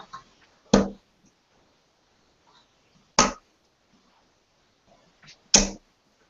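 Three darts thrown one after another, each landing in a dartboard with a sharp thud, about two and a half seconds apart.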